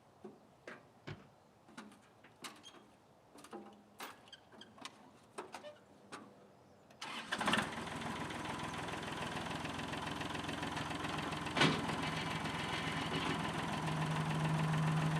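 A few seconds of scattered light clicks and knocks, then an engine starts about seven seconds in and settles into a steady idle, with one sharp knock a few seconds after it catches.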